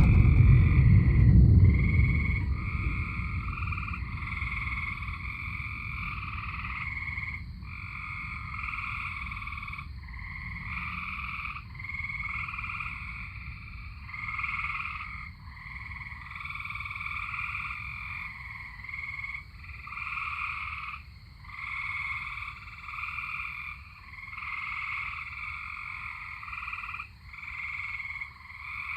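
A loud, low rumble of thunder at the start that fades away over the first few seconds. Then a chorus of tree frogs calling, overlapping trills about a second long, one after another.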